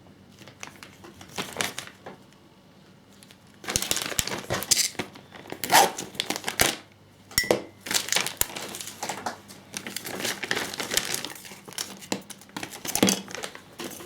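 Plastic packaging crinkling as small model-kit parts are unwrapped and handled, in dense irregular bursts that start about four seconds in.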